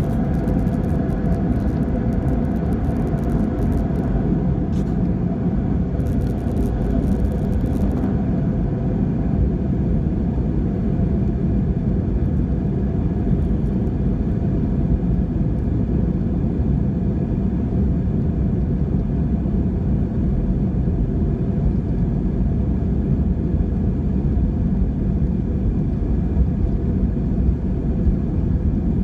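Airbus A320 cabin noise: a steady low rumble of the jet engines and airframe heard from inside the passenger cabin, with faint steady engine tones above it.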